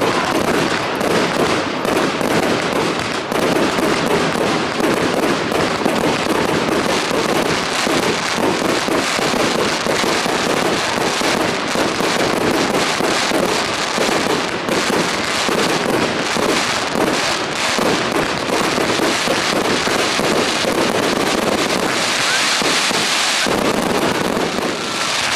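Fireworks display: a dense, unbroken barrage of shell bursts and crackling, many reports every second. About 22 seconds in comes a short spell of brighter, hissier crackle.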